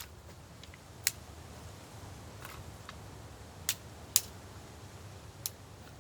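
Wood in a campfire crackling: about half a dozen sharp, scattered pops over a low, steady rumble of wind.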